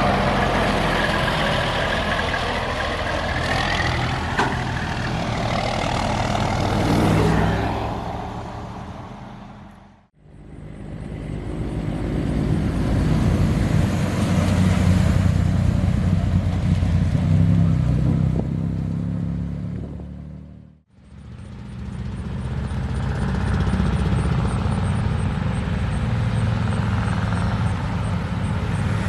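Heavy truck diesel engines running and pulling, in three separate stretches split by two fades, about ten and about twenty-one seconds in.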